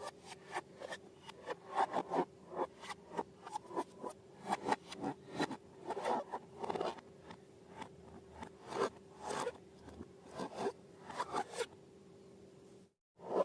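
Slime and balloons being worked by hand: a quick run of short crackling, scraping strokes, a few a second, over a faint steady hum, cut off briefly near the end.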